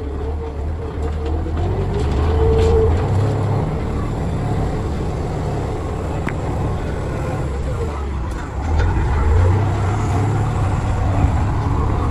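Heavy diesel engines of construction machinery running steadily at a worksite. The engine note swells under load about two seconds in and again near nine seconds.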